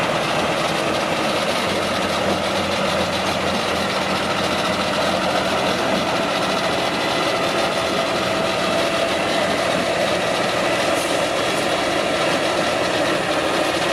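Heavy off-road truck engine running steadily, with a faint whine that edges up slightly in pitch in the second half.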